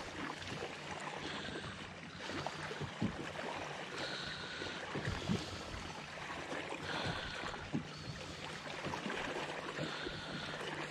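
Water lapping at a fishing kayak with scattered light knocks, under a person's loud breathing that comes about every three seconds; the breathing is heavy from allergies.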